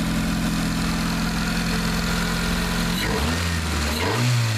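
Honda Accord's freshly swapped engine idling steadily, then revved once about three seconds in, its pitch rising and starting to fall back near the end.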